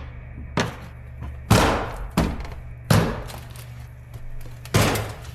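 Interior door panel of a Nissan 240SX being knocked onto its door clips: five sharp thumps a second or so apart, the second the loudest.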